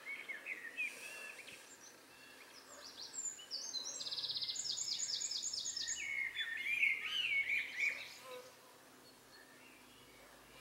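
Songbirds singing: a few high chirps, then a rapid trill of repeated notes, about six a second, starting about four seconds in, followed by warbled phrases that fade out after about eight seconds.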